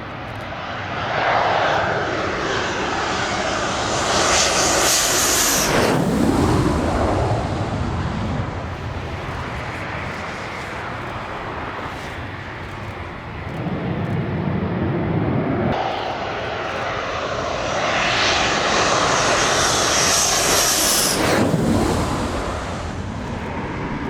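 Two Panavia Tornado GR4 jets passing low one after the other, their twin RB199 turbofans building to a loud peak as each goes by, then falling away to a low rumble. The first passes about five seconds in, the second near the end.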